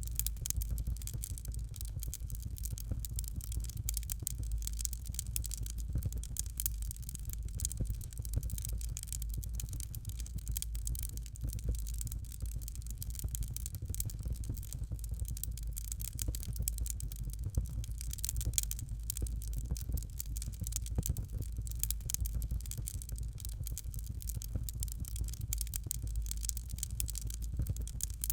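Fireplace fire crackling: a dense, irregular run of small snaps and pops over a steady low rumble.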